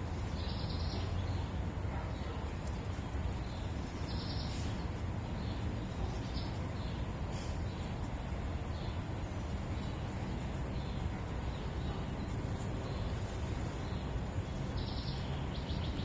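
Small birds chirping in short high calls every second or two, over a steady low background noise.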